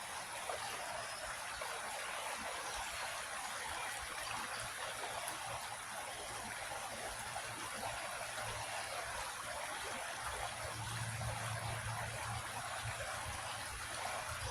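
A small creek flowing, a steady rushing trickle of water over stones. A low hum rises underneath about ten seconds in.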